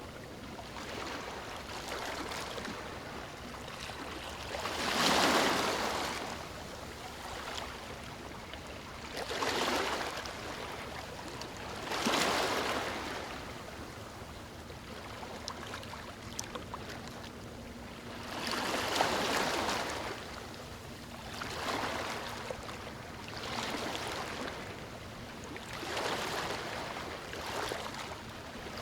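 Ocean waves breaking on a beach: a steady wash of surf that swells with each breaking wave every few seconds and fades back down between them.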